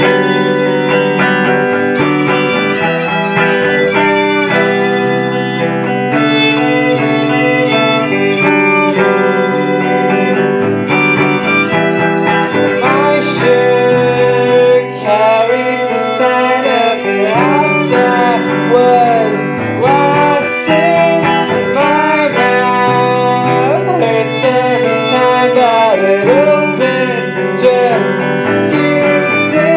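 Live band playing an instrumental passage of a song, with guitar and fiddle. From about halfway the playing adds sliding notes and sharp, bright hits.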